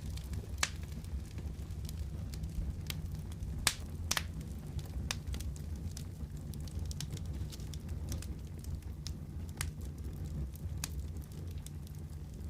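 Fireplace fire crackling: irregular sharp pops and snaps over a steady low rumble, with the loudest pops about half a second in and around three and a half to four seconds in.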